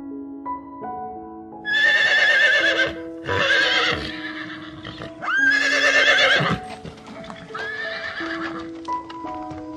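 Horse whinnying four times, each call about a second long with a quavering, wavering pitch, over soft piano background music.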